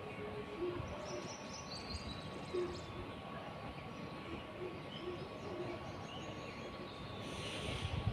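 Outdoor background noise with a faint steady tone, and a few short, faint bird chirps about one to three seconds in.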